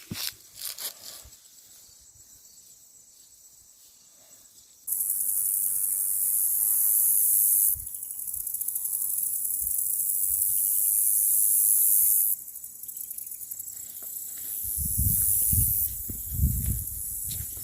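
An insect's shrill, very high-pitched buzzing call that switches on abruptly about five seconds in, holds steady for about seven seconds and cuts off suddenly, then goes on more faintly. Low footstep thumps come in near the end.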